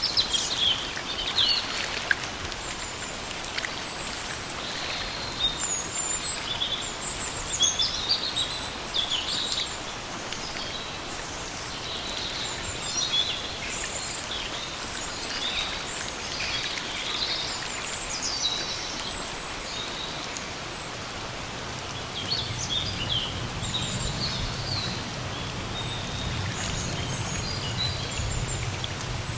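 Steady rain in a forest, with many small birds chirping and trilling through it. A low rumble joins in about three quarters of the way through.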